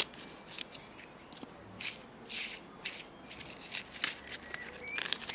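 Tarot cards being shuffled and handled: a run of short, uneven rustling swishes.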